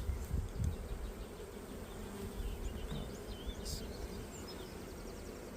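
Honeybees from an opened hive buzzing in a steady hum, with a few low knocks in the first second.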